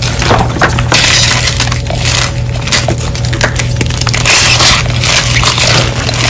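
Dyed gym chalk blocks being crushed and crumbled: a continuous run of dry, irregular crunches and crackles.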